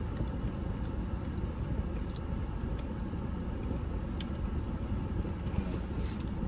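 Steady low rumble of a car cabin, with a few faint light clicks near the end.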